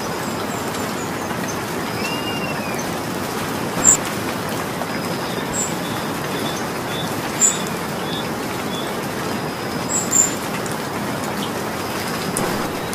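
Steady rain falling, with a few sharp, louder ticks of close drops. A bird chirps now and then in the background.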